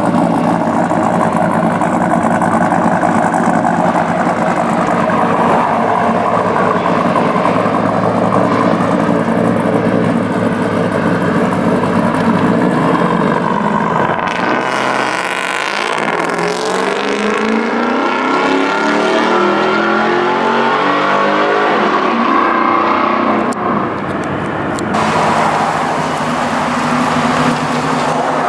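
A sports car engine running steadily, then revving, its pitch sweeping up repeatedly from about halfway, with a couple of abrupt breaks.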